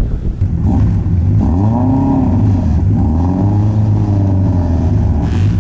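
Rally car engine running close by, its pitch rising and falling twice over a steady low drone.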